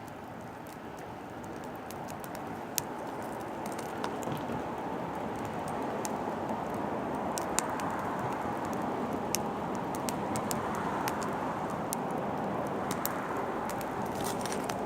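Oak firewood burning, with many sharp crackles and pops over a steady rushing noise that grows a little louder over the first few seconds.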